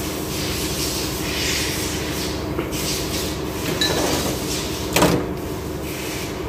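Steady low rumble, with a few metal clunks from heavy clutch parts being handled; the loudest comes about five seconds in.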